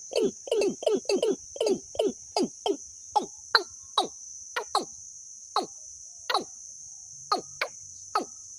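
Recorded bird call played as a trapping lure: sharp notes each sweeping quickly down in pitch, a fast run at first that slows and thins out to irregular single notes about a second apart. A steady high cricket-like trill runs underneath.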